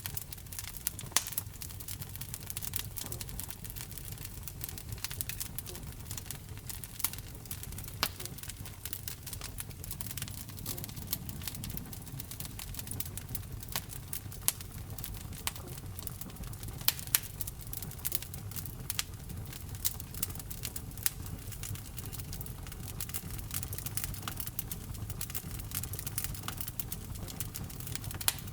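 Wood fire burning in a fireplace: a steady low rumble of flames with frequent irregular crackles and occasional louder pops.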